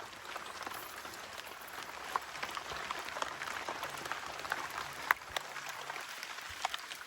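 Rain pattering steadily, a hiss dotted with many small drop ticks, swelling in the first second and easing near the end.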